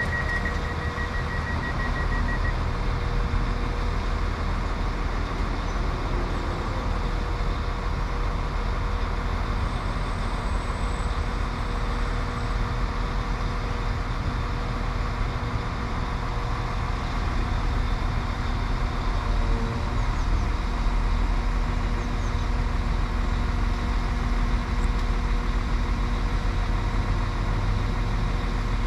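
Diesel train engine running steadily at a constant pitch, a low hum with steady tones over it. A rapid pulsed beeping sounds over the first two seconds or so.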